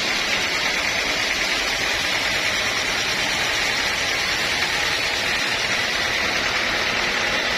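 Sawmill machinery running steadily: a continuous, even machine noise with a constant high whine and no breaks.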